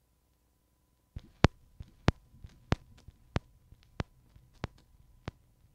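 A quiet run of sharp clicks in a steady rhythm, about three a second with every other one louder, starting about a second in, from the 7-inch breaks record as it starts playing.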